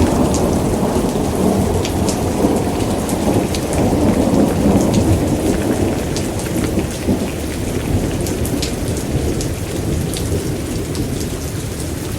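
Thunderstorm: a low rolling rumble of thunder that eases off about halfway through, over steady heavy rain with individual drops pattering.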